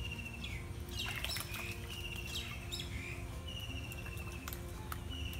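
A bird calling over and over, each call a quick downward sweep into a trilled note up to about a second long, with a steady low hum underneath.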